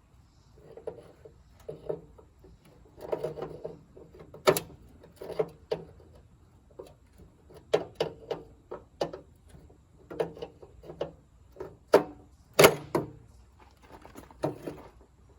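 Hand tools and loose parts clinking and knocking irregularly while a stuck bolt is being worked on, with a few sharper clanks, the loudest about three quarters of the way through.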